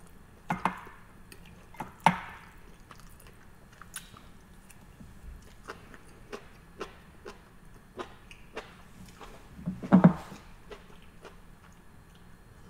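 Seaweed salad being chewed close to the microphone: wet, squishy mouth sounds and small sharp clicks, with a louder cluster of sounds about ten seconds in.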